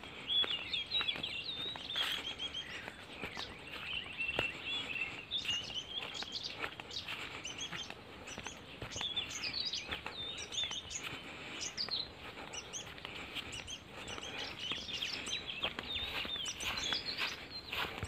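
Several small birds chirping and twittering: many short, quick high calls overlapping one another over a light outdoor hiss, with a few soft clicks scattered through.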